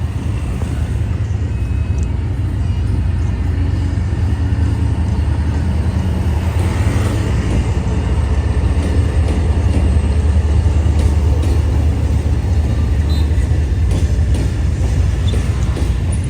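Freight train hauled by a D19E diesel-electric locomotive running by, a steady low rumble from the engine and rolling stock that grows somewhat louder toward the middle.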